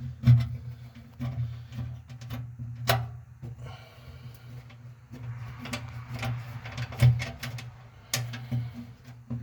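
Hand tools clicking and clinking against the grill's sheet-metal parts as nuts are worked loose with pliers: irregular sharp taps, the loudest about a third of a second in, near three seconds and near seven seconds, over a steady low hum.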